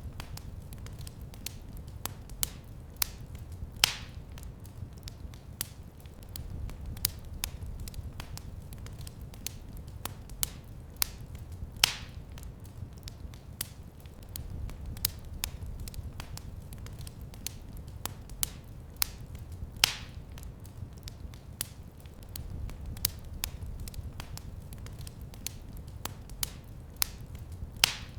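Wood fire crackling in a fireplace: a steady scatter of sharp crackles and small pops over a low rumble of the flames, with a louder pop about every eight seconds.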